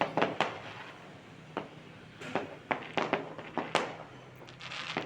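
Fireworks going off: irregular sharp bangs and cracks, several in quick clusters, with a short rushing hiss near the end.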